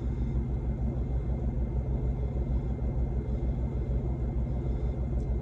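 Semi truck's diesel engine running, a steady low rumble with an even pulse.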